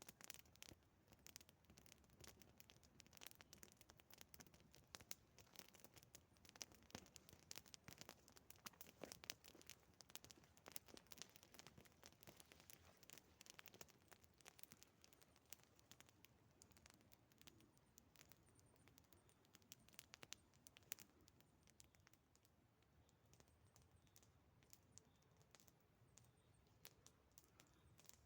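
Faint crackling and snapping of a small wood campfire, irregular sharp clicks that come thick in the first half and thin out in the second.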